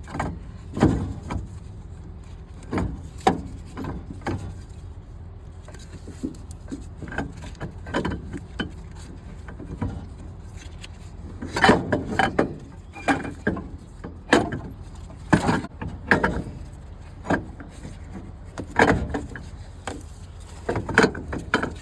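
Water pump being worked loose from a Cummins ISX 15 engine: irregular metal knocks, clunks and scraping as the pump is pried and wiggled out of its bore.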